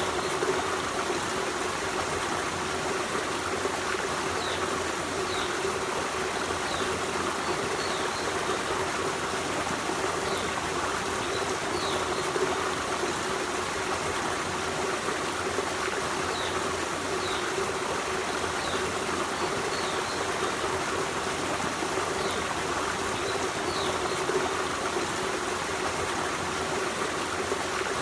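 Forest stream running with a steady, even rush of water, with faint short high chirps every second or two.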